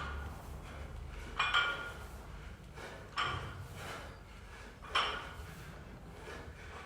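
Gym weights clinking metal on metal during workout reps: three sharp clinks, each with a short ring, about one every couple of seconds.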